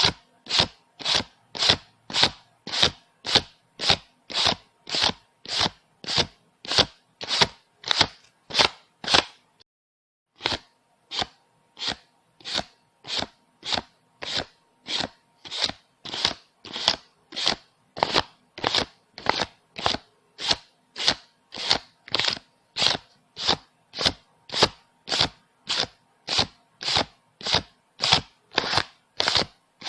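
Paper banknotes being counted by hand, each bill flicked past with a crisp snap, about three a second in an even rhythm. The count pauses for about a second roughly a third of the way in.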